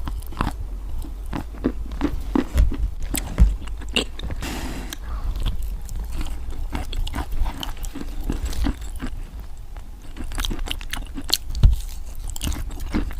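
Wet white chalk being bitten and chewed, with many short, irregular crunches.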